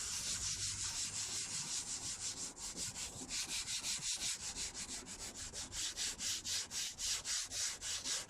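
Fine wet sandpaper rubbing back and forth in quick straight strokes, about four a second, over a plastic car headlight lens: wet-sanding off the oxidised, UV-hazed surface layer.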